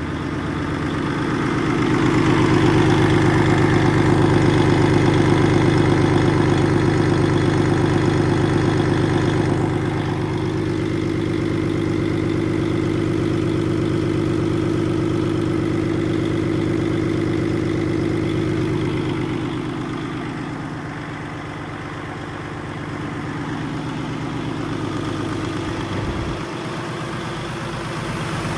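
2012 PACCAR MX-13 12.9-litre inline-six diesel engine running steadily at idle. It gets louder over the first couple of seconds, eases back about ten seconds in, and dips briefly a little past the twenty-second mark.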